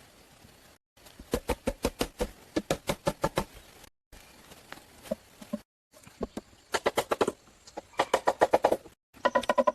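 Rapid series of sharp strikes, about five or six a second, in short runs broken off by abrupt cuts; some strikes carry a short ringing tone.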